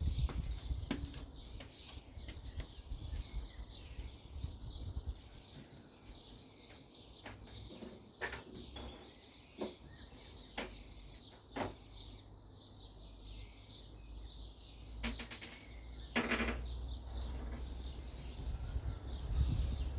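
Scattered light clicks and knocks of small parts and hand tools being handled, a few seconds apart, over a steady low background rumble, with faint outdoor bird chirps.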